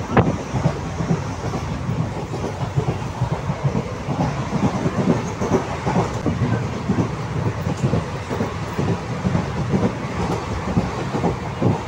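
Indian Railways passenger coach running at speed, heard from inside by an open barred window: a steady rumble with the wheels clattering irregularly over the rails, and a sharp click just after the start.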